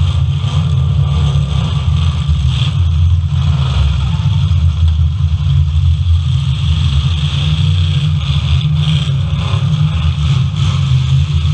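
Engines of full-size demolition derby cars running in a loud, steady rumble, with some revving in the second half.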